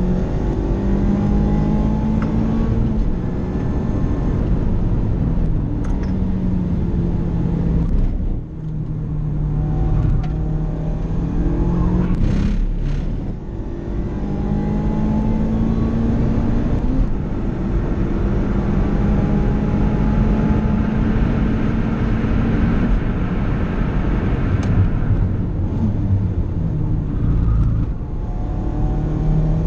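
Mazda ND Roadster's 2.0-litre four-cylinder engine at racing pace, heard from inside the cabin. It repeatedly revs up through the gears, drops at each gear change, and falls away as the driver lifts off for corners, twice clearly about a third of the way in and again near the end.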